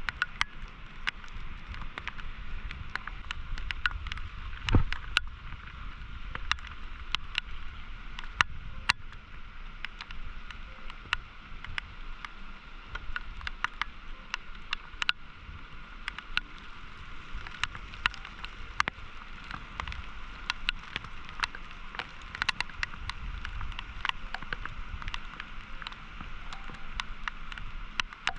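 Steady rush of a swollen, flooding river, with many irregular sharp ticks over it and one louder knock about five seconds in.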